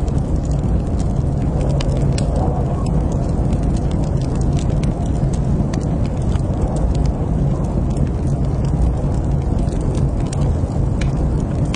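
Wood fire burning in a fireplace: a steady low rumble with frequent sharp crackles and pops scattered through it.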